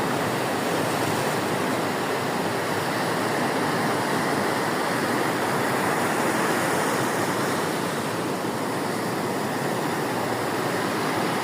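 Sea surf breaking on a beach, heard as a steady, even rush of water with no pauses or single crashes standing out.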